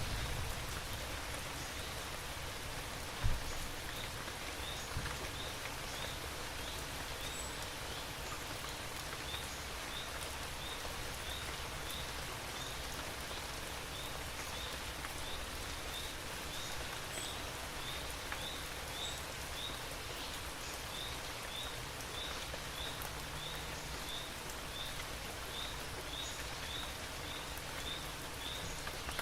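Steady rain falling, with a short high chirp repeating about twice a second and a single low thump about three seconds in.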